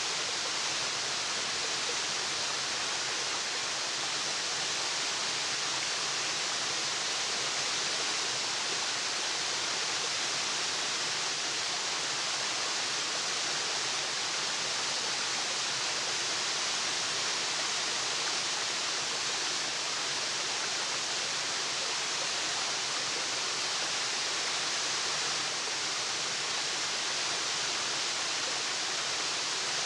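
Waterfall: water falling and splashing in a steady, unbroken rush, with a hissy, bright tone.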